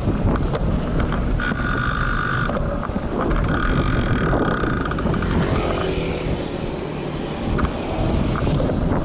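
Strong wind buffeting the built-in microphone of an action camera on a moving road bike, in gusty typhoon weather, with traffic noise under it. A high, steady whine comes and goes twice in the first half.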